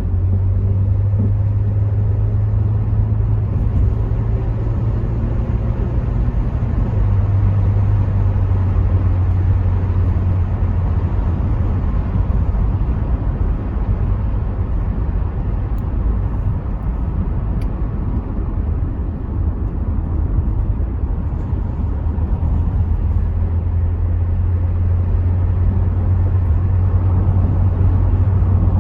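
Rover 75 V6 estate on the move: a steady low engine drone with tyre and wind noise through partly open windows. The engine note drops slightly about seven seconds in.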